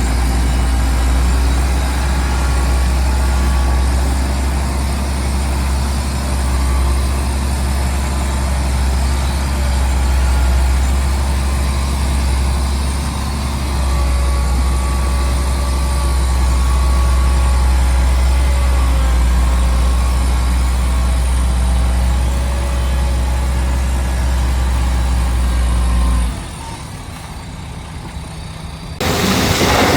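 Heavy diesel engine of an earthmoving machine running steadily with a deep low rumble. Near the end the rumble drops away and the sound gets clearly quieter.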